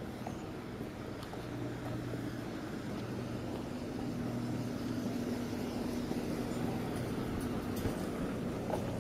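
A motor vehicle engine running with a steady low hum, over general street noise.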